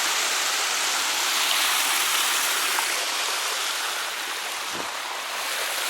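Creek water rushing over rocks, a steady loud hiss.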